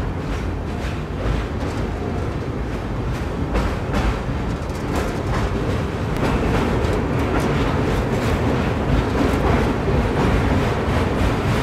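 Passenger train running along the rails at speed, heard from the moving coach: a steady rumble and rush with faint repeated clicks of the wheels over rail joints, getting a little louder about halfway through.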